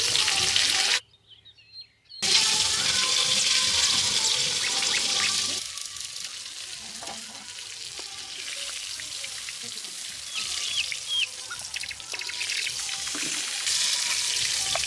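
Pointed gourd pieces sizzling in hot oil in a steel kadai, with the sizzle breaking off briefly about a second in and turning quieter about halfway through. Short clinks of a metal spatula against the pan and bowl come near the end as the fried pieces are lifted out.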